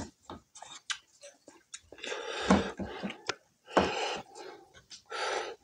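Close-miked eating sounds of a person chewing chicken kebab and rice eaten by hand: wet mouth clicks and lip smacks, then a few longer noisy bursts of chewing about two, four and five seconds in.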